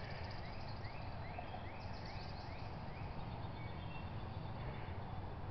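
Outdoor ambience: a bird calls a quick run of short rising chirps, about three a second, over a steady low rumble.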